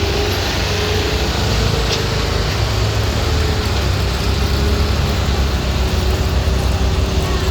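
Motor vehicle engine running close by, a steady low sound with a faint wavering whine over it.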